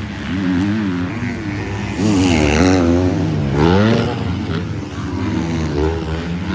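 Motocross bike engines racing on the track, revving up and down in pitch as riders work the throttle and shift, with a couple of sharp rising revs in the middle.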